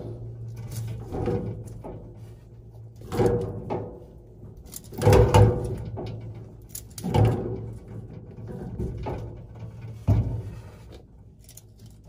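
Irregular metal clunks and knocks, the loudest about five seconds in, as tools and parts are handled inside a furnace cabinet, over a steady low hum.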